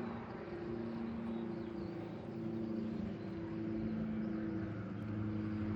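A steady engine drone with a couple of held, humming tones that barely change in pitch.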